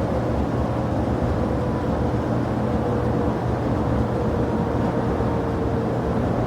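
Jet airliner engines running steadily, with a faint whine that slowly falls in pitch.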